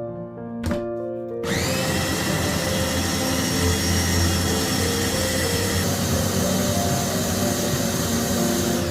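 An electric kitchen appliance motor, blender or food-processor type, switches on about a second and a half in and runs steadily at high speed with a whine. Soft piano music plays underneath.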